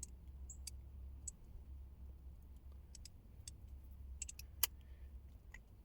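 Scattered faint clicks and taps of a metal socket and its plastic case being handled while a socket is picked out to fit on a drill, one sharper click a little before the end, over a low steady hum.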